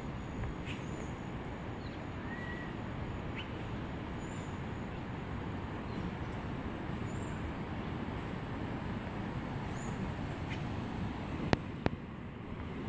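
Birds giving short, scattered chirps over a steady low rushing noise, with two sharp clicks near the end.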